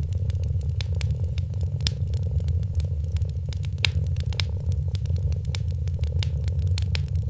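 Wood fire crackling with irregular sharp pops over a cat's steady, low purr.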